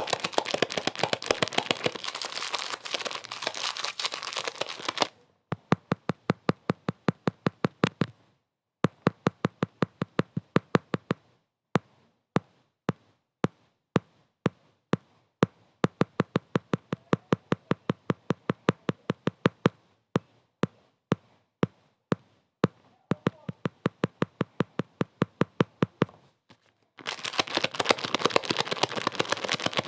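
A rapid train of sharp knocks, a few a second, with some uneven gaps; a dense hiss runs under them for about the first five seconds, drops out, and comes back near the end.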